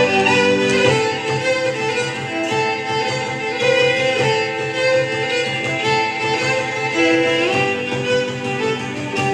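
Live Celtic fiddle music: a lead violin plays a melody over a bowed string ensemble.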